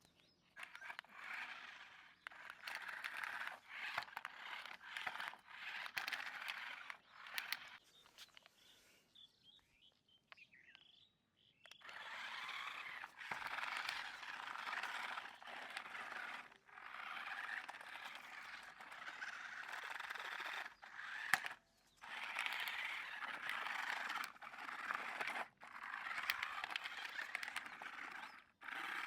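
Toy RC stunt car's small electric drive motors and plastic gearing whirring in runs of a few seconds, with short pauses between runs, as the car is driven in spurts.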